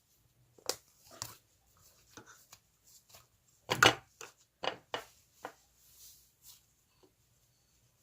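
Slime being handled: a string of short sticky clicks and pops, the loudest cluster about four seconds in.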